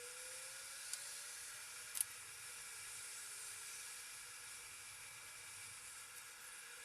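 Faint steady hiss with a few thin high tones running through it, broken by two short sharp clicks about one and two seconds in.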